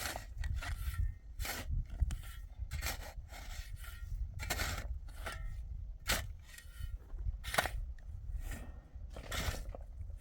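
Irregular scraping strokes, roughly one a second, over a steady low rumble.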